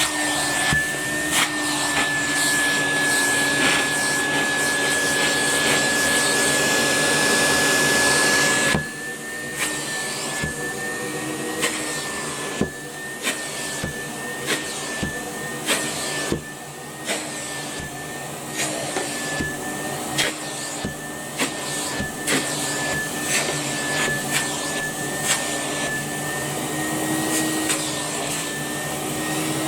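Numatic Hetty cylinder vacuum cleaner running steadily, with a constant motor whine over the rush of suction and scattered sharp clicks as it picks up dirt. About nine seconds in, it becomes noticeably quieter and the whine begins to waver slightly.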